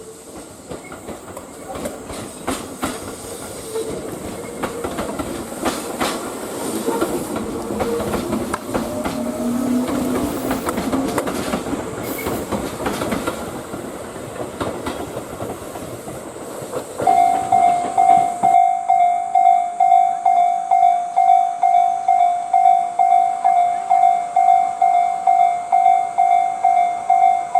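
Tobu 8000 series four-car train running past, its wheels clattering over the rail joints. About 17 seconds in, a level-crossing warning bell starts ringing at about two dings a second as the train noise falls away.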